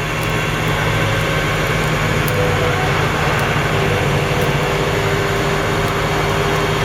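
Tow truck's diesel engine running steadily under load while its hydraulic winch drags a car up out of a muddy ditch. The hum grows louder in the first second, then holds.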